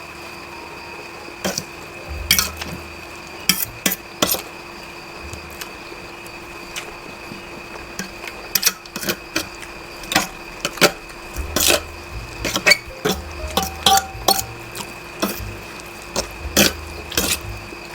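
Eating utensils clinking and scraping against a bowl of noodles during eating, as a scatter of sharp clicks that grow busier about halfway through.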